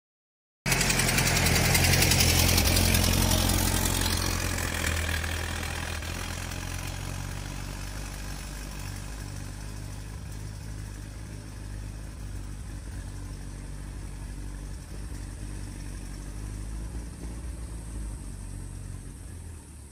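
1923 Ford Model T's four-cylinder engine running as the car drives away down the road. The sound cuts in abruptly just under a second in, is loudest for the first few seconds, then fades steadily as the car goes off into the distance.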